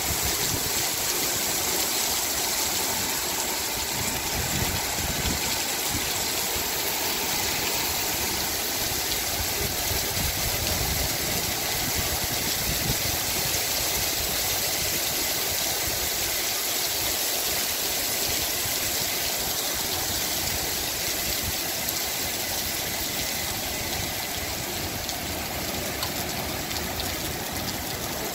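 Heavy rain pouring down steadily, a dense even hiss of a cloudburst.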